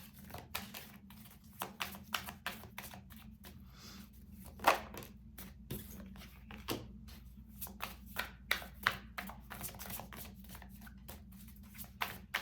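A deck of tarot cards being shuffled by hand: a run of irregular soft clicks and slaps, several a second, with one louder snap near the middle.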